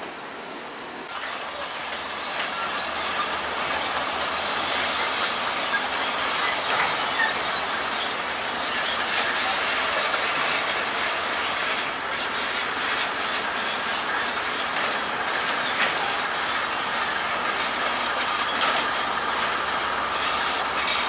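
Bulldozer's steel crawler tracks squealing and clanking continuously as it moves, growing louder over the first couple of seconds.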